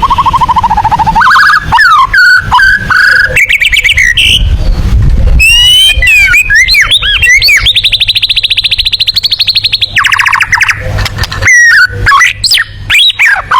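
White-rumped shama (murai batu) singing a loud, fast, varied song of sweeping whistles and rapid trills. Near the middle comes one long, very fast, even trill of about two seconds.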